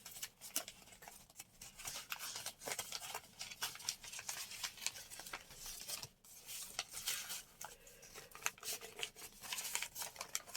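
Paper rustling and crinkling with many small clicks and scrapes as a glued collage page is handled and pressed into a paper journal.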